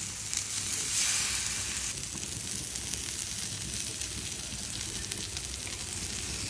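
Mutton shami tikki patties frying in oil on a flat griddle: a steady sizzle with fine crackling, a little louder about a second in.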